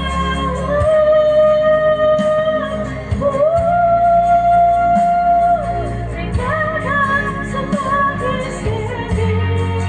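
A voice singing in a high falsetto over backing music. It holds long notes, slides up about three seconds in to a higher note held for about two seconds, then sings a shorter, wavering phrase.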